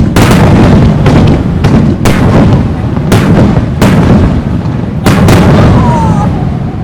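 Aerial fireworks shells bursting in quick succession, about eight loud booms in six seconds, each followed by a low rumbling echo. A faint falling whistle comes about six seconds in.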